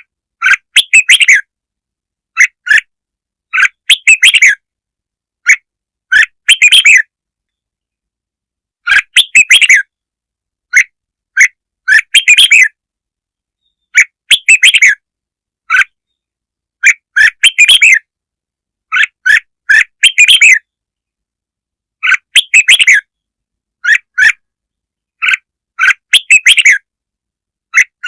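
Red-whiskered bulbul song: short phrases of quick chirping notes, repeated every two to three seconds with silent gaps between. It is a recorded lure song of the kind played to rouse bulbuls.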